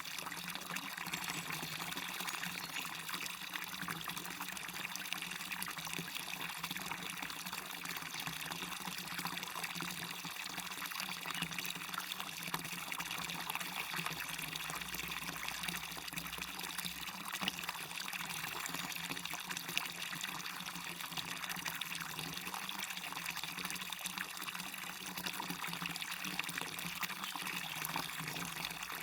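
Small waterfall splashing and river water running, a steady rushing hiss with a fine spatter of splashes.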